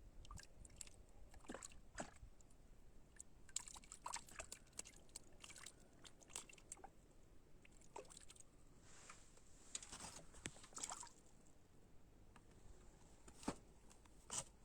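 Faint scattered clicks and taps of small handling noises, with a brief watery sloshing about nine to eleven seconds in.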